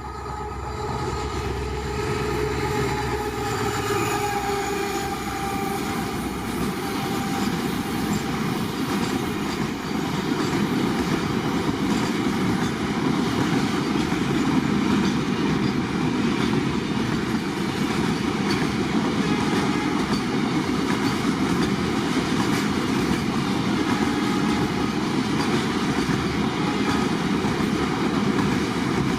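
Diesel-hauled goods train passing close by. The locomotive's engine hum is heard first, then the freight wagons roll past with a steady rumble and a rapid clatter of wheels over rail joints, growing louder over the first ten seconds.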